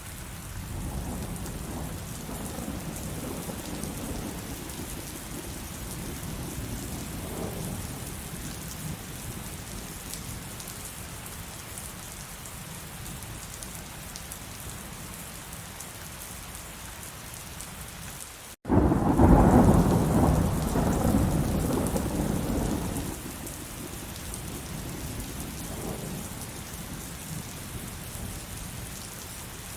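Steady heavy rain with a low rolling thunder rumble through the first several seconds. About nineteen seconds in, the sound cuts out for an instant, then a loud clap of thunder rumbles for about four seconds and fades back into the rain.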